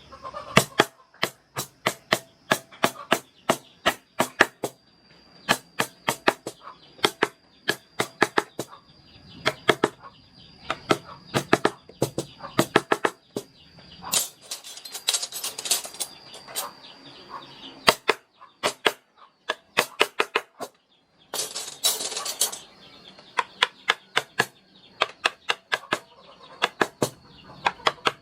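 A mallet tapping a carving chisel into wood by hand: a quick, uneven run of sharp knocks, several a second. Twice, a short burst of hissing noise breaks in.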